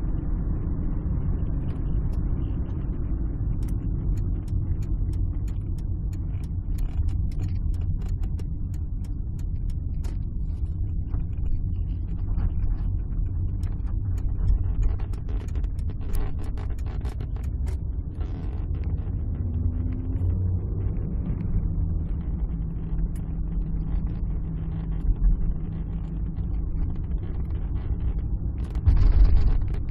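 Alfa Romeo 156 being driven, heard from inside the cabin: a steady low engine and road rumble with scattered light clicks and rattles, and a louder bump near the end.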